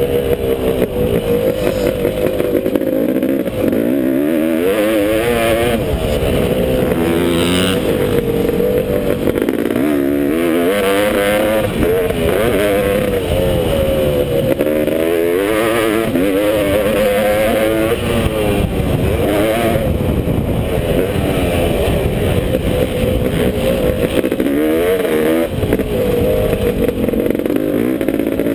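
Honda CR500 two-stroke single-cylinder engine in a KTM frame, ridden hard: it revs up and drops back again and again, every second or two, with no break.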